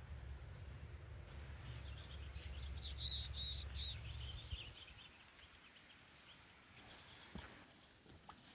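Wild bird song: a rapid warbled phrase a couple of seconds in, then a few short high rising chirps near the end, over a low rumble that stops about halfway.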